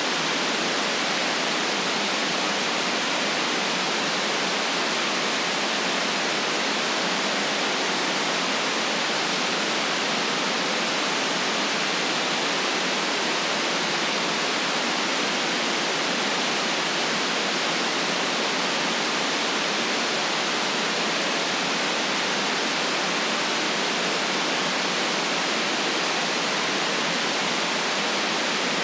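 Steady white noise: an even, unchanging hiss with no deep bass and no very high treble.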